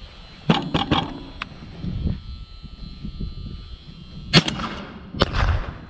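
Sharp cracks: three in quick succession about half a second in, then two more near the end, the first of them trailing off briefly.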